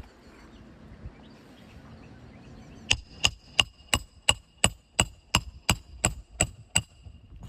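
Hammer striking a roof snake to drive roofing nails back in under a lifted asphalt shingle: about a dozen sharp, ringing metallic strikes, roughly three a second, starting about three seconds in.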